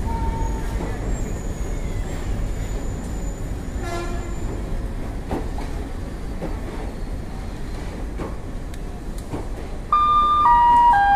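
Passenger train coaches rolling slowly along a station platform: a steady low rumble with scattered wheel clicks. About ten seconds in, the loudest sound: a railway station public-address chime of three falling tones, the signal that an announcement is about to follow.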